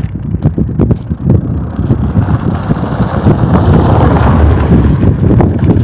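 Wind buffeting the microphone over the jolting and rattling of a GTS M1 bike rolling down a potholed slope with the brake held, with many short knocks from the rough surface.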